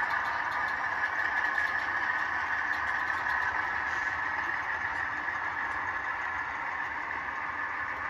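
Sound decoders in HO scale model locomotives playing a GE 12-cylinder diesel prime mover through small onboard speakers, running steadily, with faint ticking above it.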